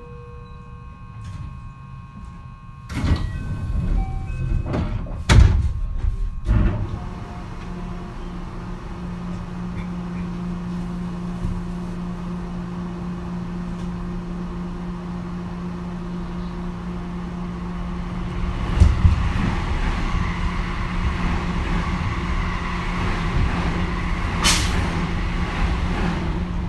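Inside a JR West 223 series 3000-subseries electric train standing at a station: a few seconds in, the sliding doors open with a run of loud thuds. Then a steady low hum, with more knocks about two-thirds through and a short sharp hiss near the end.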